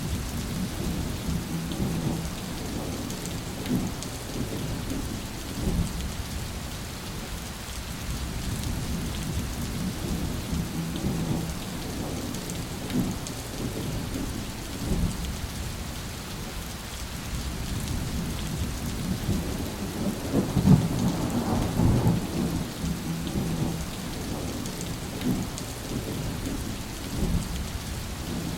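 Steady rain falling with low rolling thunder throughout, swelling into a louder thunder rumble about two-thirds of the way through.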